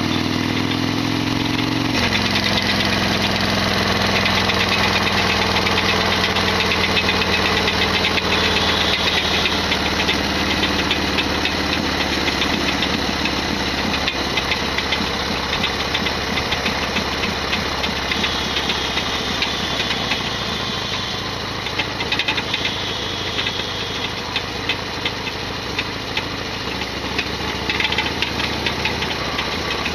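Harley-Davidson Sportster XL1200R V-twin engine running under way, with a loud rattling, clattering noise from the engine that the owner counts as a big abnormal noise. The revs rise for about two seconds, then drop as the bike settles into a steady pace, and ease off a little about twenty seconds in.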